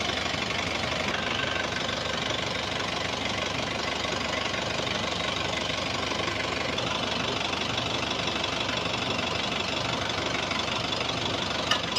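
Car engine idling steadily with an even mechanical running noise and no breaks, heard while the power steering is being checked.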